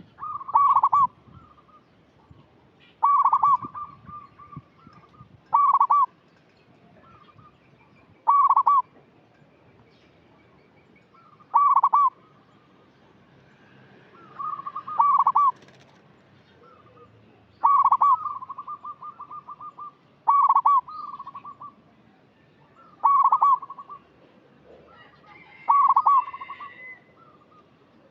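Zebra dove (perkutut) calling, a local male in full song: short cooing phrases repeated about every two to three seconds, some running on into a quick rolling trill.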